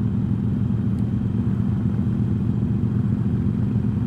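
Harley-Davidson V-twin motorcycle engine running steadily at cruising speed, heard from on the bike.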